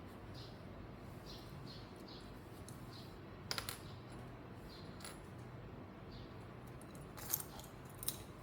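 Three short, small clinks from a hard object being handled or set down: one about three and a half seconds in and two close together near the end, the first of those two the loudest.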